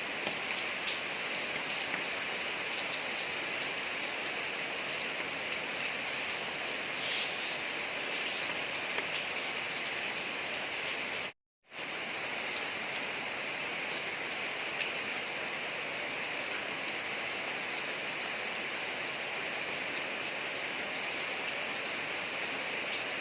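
Steady rain falling on a street, an even hiss with scattered drop ticks. The sound cuts out completely for about half a second near the middle, then resumes as before.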